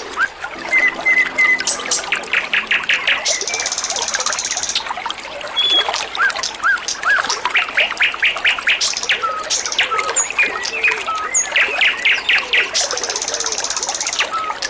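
A wambi songbird singing in quick runs of repeated chirps and short rising whistles, several bursts a few seconds apart, with a buzzy high trill near the end. Water trickles steadily underneath.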